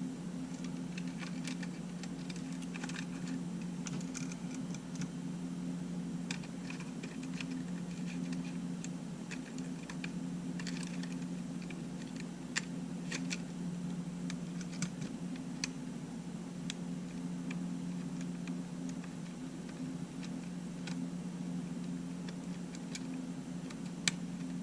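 Scattered small clicks and taps of tools and tiny parts being handled during a camera teardown, thicker in the first half with one sharper click near the end, over a steady low hum.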